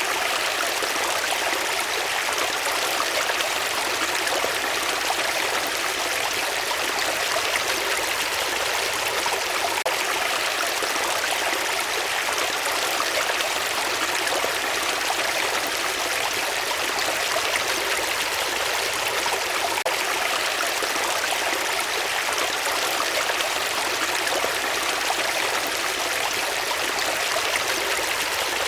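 Flowing water, a steady, unbroken rush with little deep rumble.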